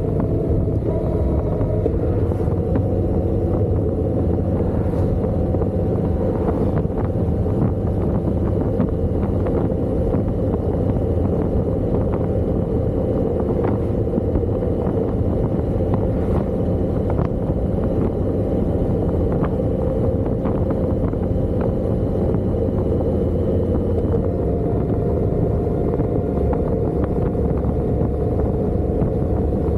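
Motorcycle riding steadily at cruising speed: constant engine drone mixed with wind and road noise.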